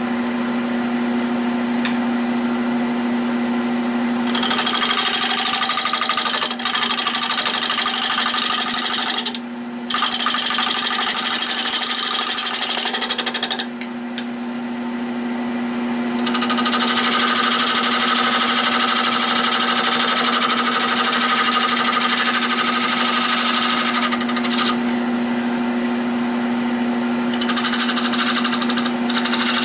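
Nova 16/24 wood lathe running with a steady motor hum while a turning tool cuts the spinning oak bowl in several long passes of hiss, the longest about eight seconds.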